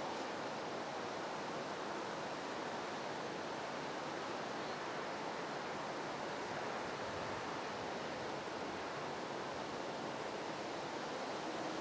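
Steady rushing, churning water as a canal lock chamber fills to raise a ship.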